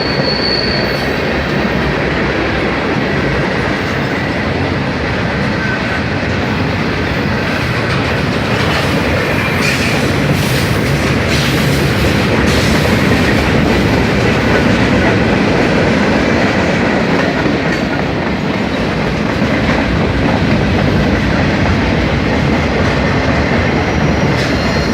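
Norfolk Southern mixed freight train's cars rolling past fast: steady, loud wheel-on-rail noise with clickety-clack over the rail joints. A high wheel squeal dies away about a second in.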